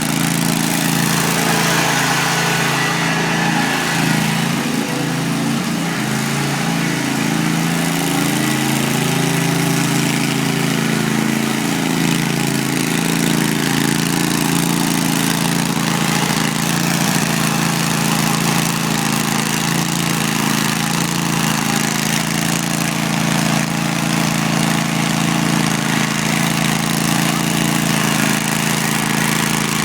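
Riding lawn mower's small engine running steadily. Its pitch wavers up and down during the first several seconds as the speed changes, then settles to an even run.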